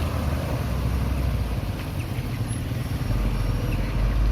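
A truck engine running with a steady low drone that shifts lower in pitch about midway.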